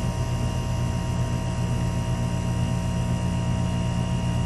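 Air-conditioner compressor running steadily with a constant low hum and hiss. The technician judges its compressor valves bad, not pumping enough refrigerant, with suction pressure high and amperage low.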